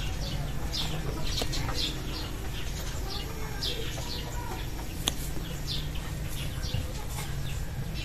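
Birds chirping in repeated short, high, falling chirps over a steady low background hum, with a single sharp click about five seconds in.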